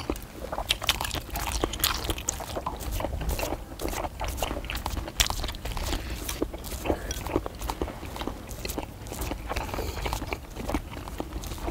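Several people chewing and biting into skewered fish cakes (eomuk) close to the microphone: a run of many small, sharp, wet mouth clicks over a steady low rumble.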